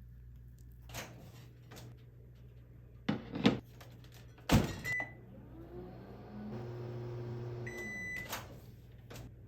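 Microwave oven being worked: a few clicks, then two loud knocks as the door is shut, and a short keypad beep. The oven then hums for about a second and a half, and a longer beep sounds near the end of the hum.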